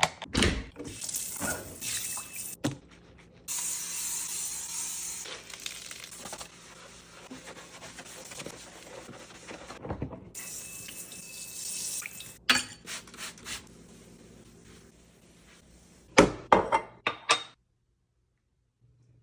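Kitchen tap running water into the sink, with knocks and clinks of dishes around it. The water stops and starts again briefly, and a quick run of clatters comes near the end before it goes silent.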